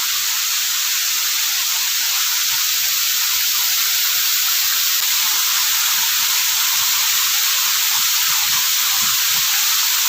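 Rushing water of a small, swift waterfall: a steady, even hiss that grows slightly louder over the first couple of seconds.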